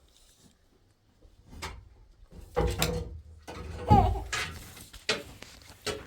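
Scattered household knocks and clinks, as of things being handled, with a short pitched cry about four seconds in as the loudest sound.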